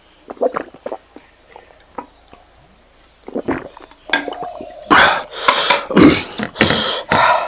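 Close-miked eating sounds: a few soft lip smacks, then from about halfway loud wet chewing and smacking of a mouthful of rice and pork fry eaten by hand.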